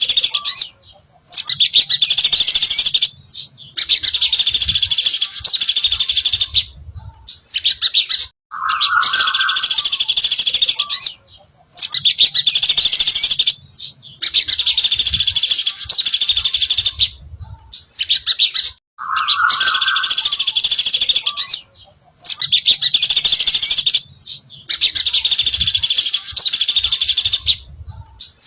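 Sogon dasi trotol bird singing: loud, high, rapid chattering phrases of two to three seconds each, repeated over and over with short breaks. Some phrases open with a brief lower note.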